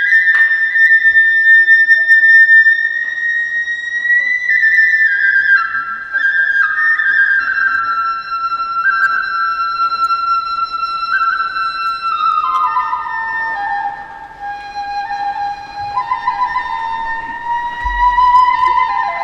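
Kagura bamboo flute (fue) playing a slow solo melody: long high notes that step gradually downward, then climb back up near the end.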